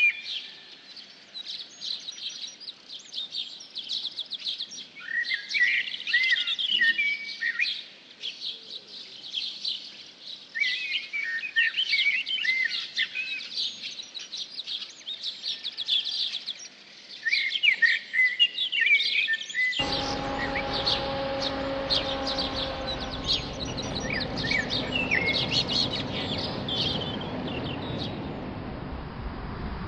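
Woodland birds singing, many overlapping chirps and warbling phrases. About two-thirds of the way through, the sound cuts abruptly to a steady rushing noise with a low hum, with birdsong still faintly above it.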